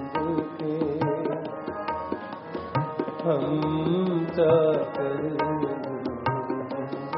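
Background music: a Sikh devotional hymn (shabad kirtan), with a tabla playing a steady beat under held melodic tones. A wavering vocal line sings briefly in the middle.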